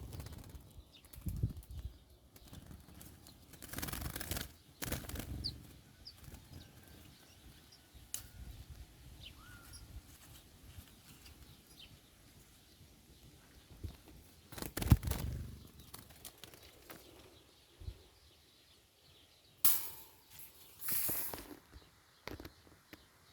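Small birds' wings flapping in short, irregular bursts, the loudest about two-thirds of the way through, with a few faint chirps in between.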